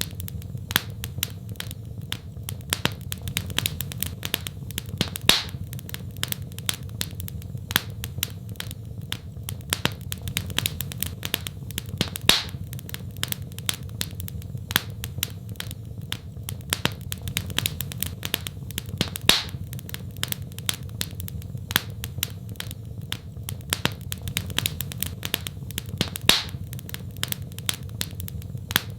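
Wood fire crackling in a fireplace: many small irregular snaps, with a louder pop every few seconds, over a steady low rumble of the flames.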